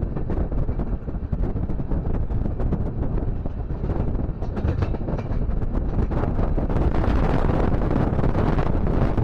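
Train running on the rails, a steady rumble with wind buffeting the microphone; it grows a little louder about two-thirds of the way in.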